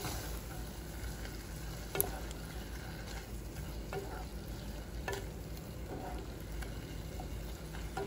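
Onion, oysters and clams frying in chili-flake sesame oil in a pot, stirred with a wooden spatula: a steady low sizzle with a few light knocks of the spatula against the pot.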